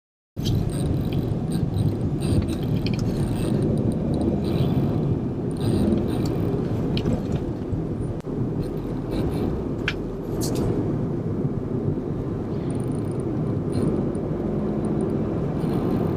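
Steady road and engine noise inside the cabin of a Volkswagen Golf R while driving, starting abruptly about half a second in.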